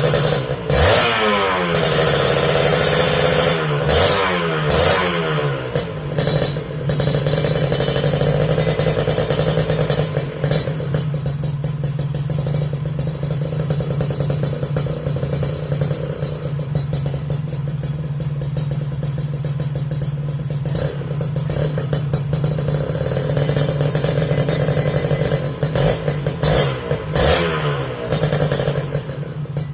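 Kawasaki Ninja R two-stroke motorcycle engine with a GJR aftermarket exhaust, blipped through several quick revs in the first few seconds and again near the end, idling steadily in between.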